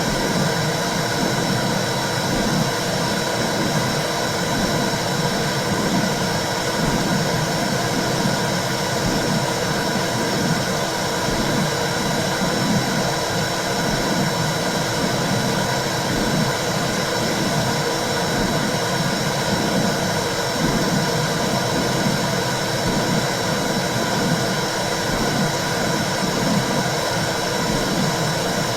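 Womb sound: a steady low whooshing rumble that swells and fades in a regular pulse, over an even hiss.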